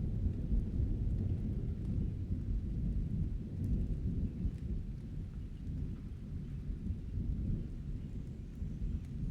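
Thunder rumbling low and continuously, easing slightly in the second half, with faint rain behind it.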